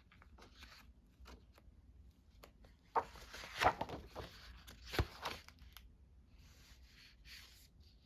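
Paper rustling as book pages are leafed through and handled, with scattered small clicks, a louder bout of rustling a few seconds in and a sharp tap about five seconds in.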